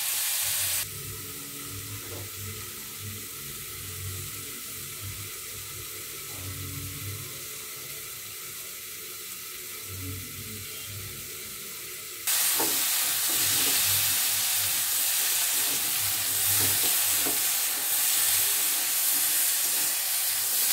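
Chopped potatoes, pumpkin and greens frying in oil in a wok on a gas stove, sizzling with a steady hiss. The sizzle drops to a faint hiss about a second in and comes back loud about twelve seconds in.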